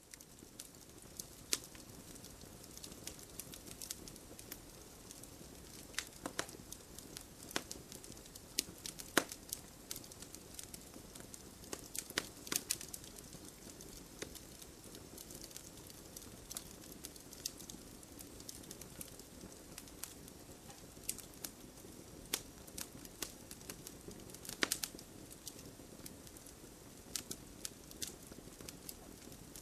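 Wood fire burning with a steady low hiss and irregular crackles and pops, a few sharper snaps standing out.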